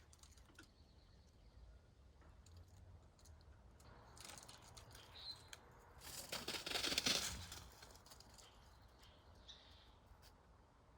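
Quiet outdoor ambience with a couple of faint, brief bird chirps, and a rustling swell about six seconds in.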